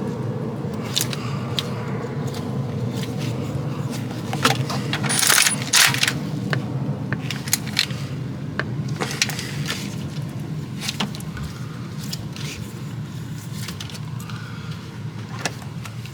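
Metal hand tools and parts clinking and tapping at the front of the engine while the new idler pulley goes on, with a louder run of clinks about five seconds in, over a steady low hum.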